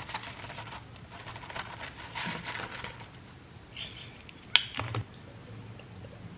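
Light scraping and rustling as stuck powder is worked through a small funnel into a bottle, with a sharp click and then a softer knock a little past the middle.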